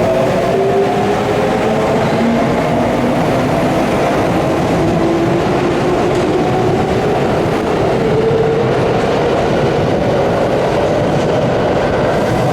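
Electric commuter train in the station: the traction motors whine over a steady rumble of wheels on rail. The whine falls in pitch through the first half, as the train slows, then rises again in the second half, as a train pulls away.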